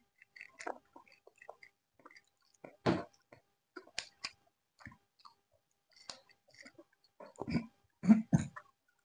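People chewing and smacking their mouths as they eat lemon rice with chicken curry: scattered soft wet clicks and smacks, with a louder one about three seconds in and a few more near the end.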